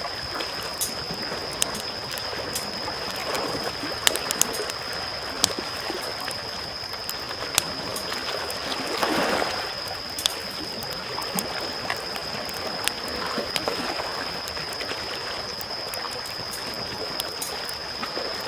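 Campfire crackling with scattered sharp pops over the hush of small waves lapping, one wave swelling up a little past the middle. A thin steady high tone sits underneath.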